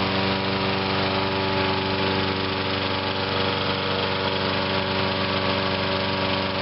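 Briggs & Stratton single-cylinder engine on a Huskee by MTD walk-behind mower, running steadily with no load. It is being run dry of gas and is close to running out of fuel.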